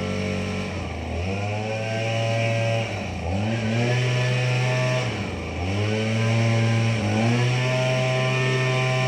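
Tractor engine running, its speed dropping and picking back up four times, about every two seconds, then holding steady near the end.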